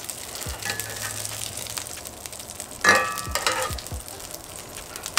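Chicken nuggets sizzling and crackling in hot olive oil in a cast iron skillet, with a sharp ringing clink of metal tongs against the pan about three seconds in as the nuggets are lifted out.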